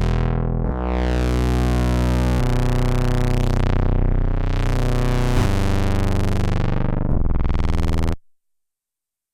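Sequential analog polyphonic synthesizer playing sustained chords that change about every two seconds, with a sweeping shimmer in the upper notes. The sound cuts off abruptly about eight seconds in.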